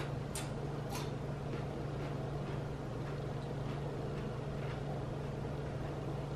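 Goya plantain chips crunching as they are chewed, with two sharper crunches in the first second and fainter ones after, over a steady low hum.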